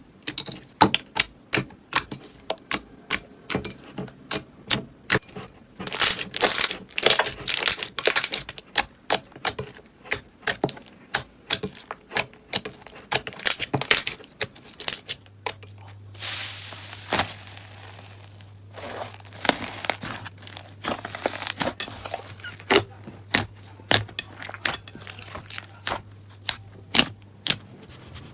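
Slime being squeezed and pressed by hand, giving rapid crackling clicks and pops that bunch into dense runs with quieter gaps between. A faint low hum comes in about halfway through.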